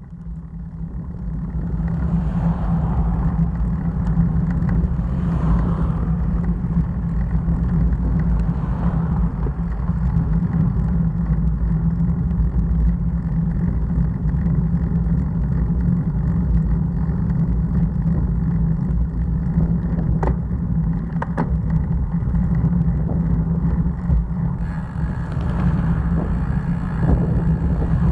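Steady, loud low rumble of road and wind noise, with a few passing swells like vehicles going by and two sharp clicks about twenty seconds in.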